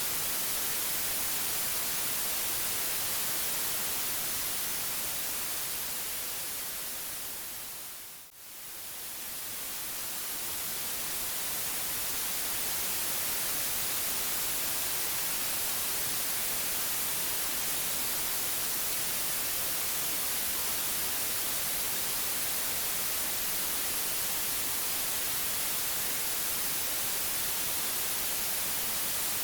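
Steady white noise, an even hiss strongest in the high end. It fades smoothly down over a few seconds to a brief near-silent dip about eight seconds in, then swells back up to full level over the next few seconds, like a loop crossfading.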